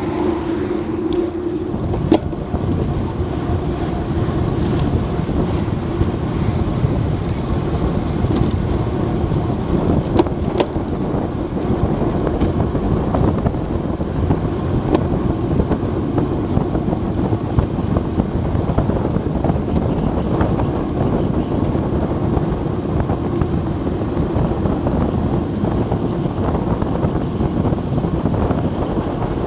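Steady wind rushing over an action camera's microphone on a bicycle riding at speed, with a few brief knocks from the road.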